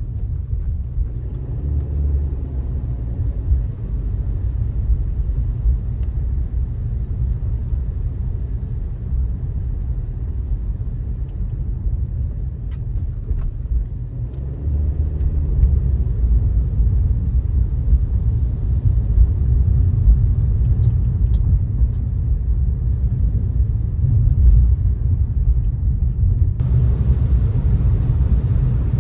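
A car driving on a wet road: a steady low rumble of road and engine noise that gets louder about halfway through, with more hiss coming in near the end.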